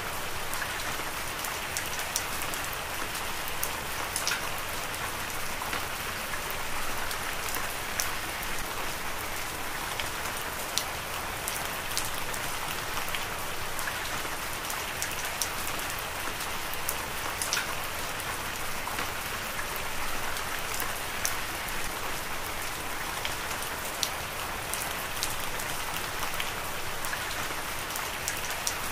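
Heavy rain falling steadily: a dense, even hiss with many scattered sharp ticks of individual drops striking.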